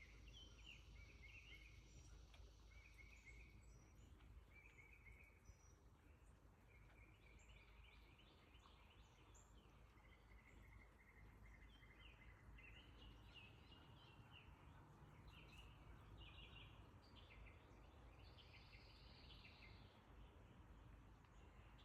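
Faint songbirds chirping and trilling, many short calls one after another, over a steady low rumble of outdoor background noise.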